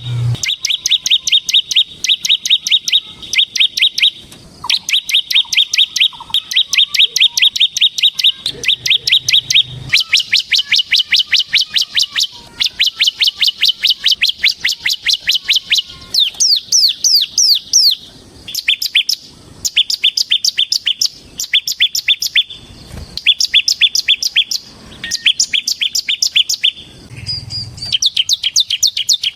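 Ciblek semi (a prinia) singing loudly in long runs of rapid, sharp, repeated high chirps, with a few downward-sweeping notes partway through and short breaks between runs. This is the non-stop 'ngebren' song of a bird in full song (gacor).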